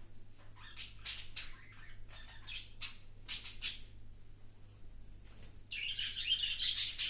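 Birds calling: a run of short, high chirps, then a louder burst of harsh squawking chatter near the end.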